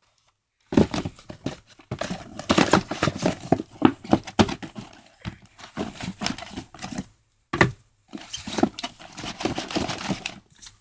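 Fireworks and their cardboard packaging being handled and moved about: irregular rustling, crinkling and knocking, starting about a second in, with a short pause about two-thirds of the way through.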